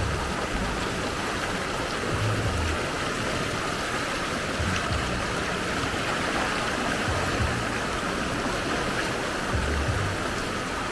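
Steady rushing of flowing floodwater and falling rain, with a dull low thump every two to three seconds.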